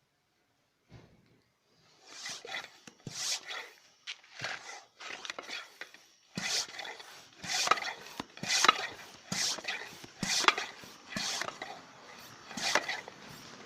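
Repeated rasping strokes of a hand tool working material, starting about two seconds in and coming roughly one or two a second, irregular in strength.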